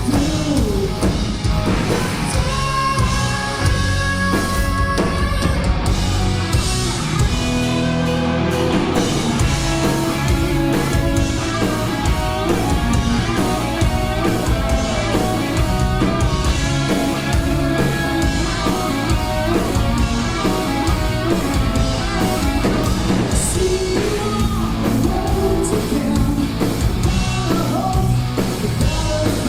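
Hard rock band playing live: electric guitars, bass and a drum kit at full volume, with singing over it.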